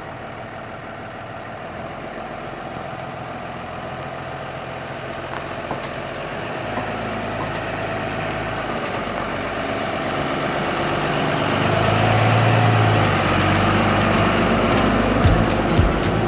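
Pickup truck driving, engine and road noise growing steadily louder as it gets under way, with a deeper engine note in the middle and a few knocks near the end.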